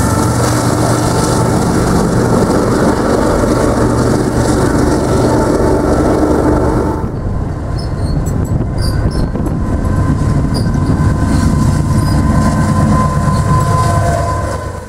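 Union Pacific diesel freight train passing close by: locomotive engines humming and double-stack container cars rolling over the rails, with thin steady squeal tones from the wheels. About seven seconds in, the sound drops and turns duller as another freight train rolls past farther off.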